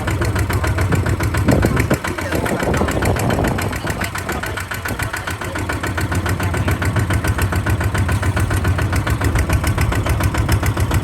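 Kubota RT140 DI single-cylinder diesel engine running, a steady rapid knock of its firing strokes; it eases a little in loudness for a few seconds near the start, then runs on evenly.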